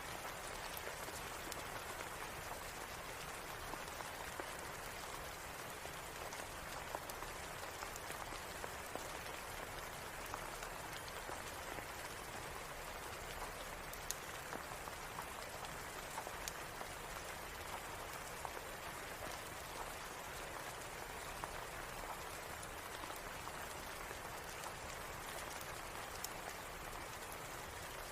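Steady rain falling, with scattered sharp crackles of a wood fire.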